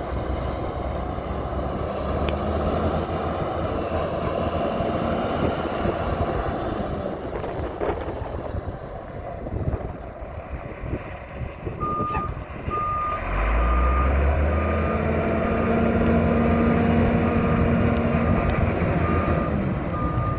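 2000 GMC C8500 tow truck's engine running steadily. About twelve seconds in, its reverse alarm starts beeping a little faster than once a second, and the engine gets louder as the truck backs up.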